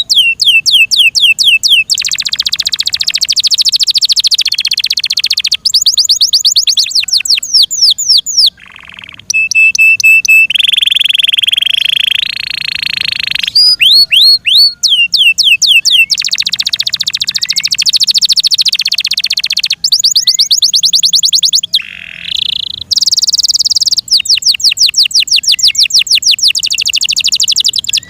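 F1 Yorkshire canary singing a long, continuous song: rapid trills of quick falling notes alternate with dense buzzing rolls. Near the middle, after a brief pause, it holds a steady whistle that steps up in pitch.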